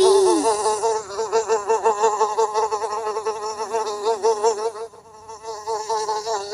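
A bee buzzing continuously, its pitch wavering quickly up and down. The buzz briefly drops away about five seconds in.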